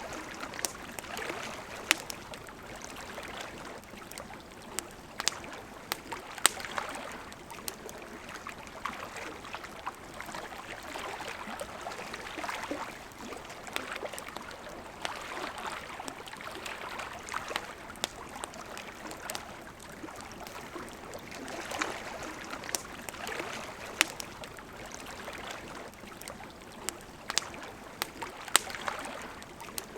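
Campfire crackling, with frequent sharp pops, over a steady burble of flowing river water.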